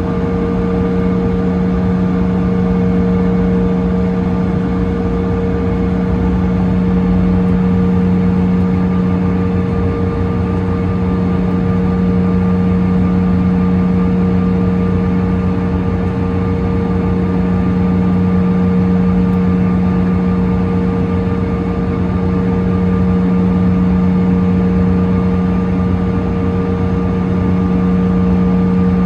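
Cabin noise of a CRJ-900 regional jet with its rear-mounted CF34 turbofan engines running: a steady hum carrying a few constant tones, with no change in pitch or power.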